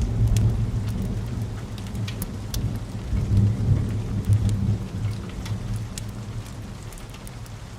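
Wood fire burning in a fireplace: a low rumble of flames with scattered crackles and pops, the rumble easing off toward the end.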